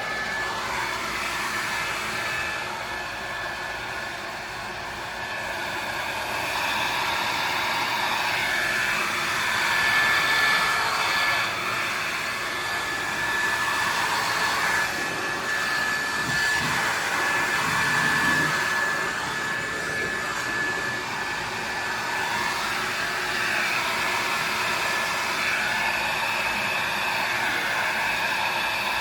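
Ryobi 2000 psi pressure washer running continuously, a steady high whine under the hiss of the water spray, the level rising and falling a little as the spray moves.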